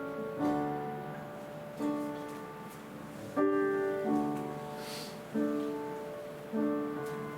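Instrumental piano playing slow held chords. A new chord is struck about every second and left to ring and fade.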